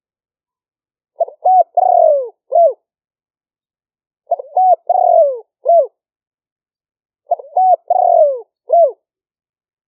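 Spotted dove cooing: three identical phrases about three seconds apart. Each is a couple of quick notes, a longer falling coo and a short closing note, with dead silence between phrases.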